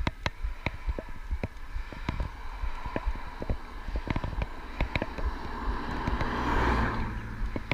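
Electric bike rolling over a rough gravel track, with frequent irregular clicks and rattles from the tyres and frame over a low rumble. A rushing swell of noise rises and fades about six to seven seconds in.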